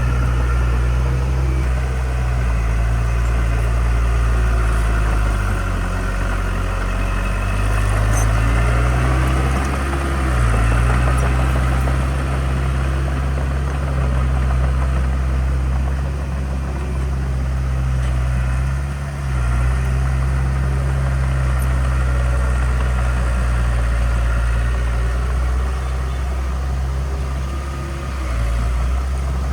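Heavy construction-equipment diesel engine running steadily, its pitch dipping briefly now and then.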